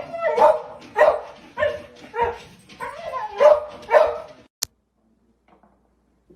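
A dog barking, about eight barks in quick succession, roughly two a second, that stop after about four seconds. A single sharp click follows, then near silence.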